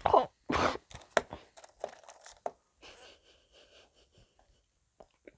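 Crinkling and tearing of a plastic snack wrapper, loudest in the first second, then softer rustling.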